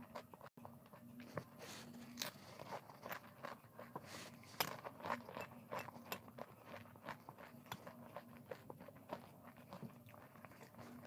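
A person chewing and biting food, with many small irregular crunchy clicks and mouth sounds.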